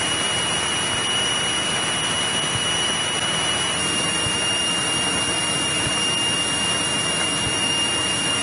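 Steady drone of a 1963 Cessna 172E's Continental O-300-D air-cooled six-cylinder engine and propeller, heard from inside the cabin in level cruise. A thin steady high whine runs through it.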